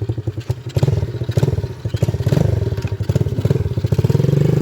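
125cc dirt bike's single-cylinder engine running just after being started, its beat wavering unevenly at first and settling into a steadier idle near the end.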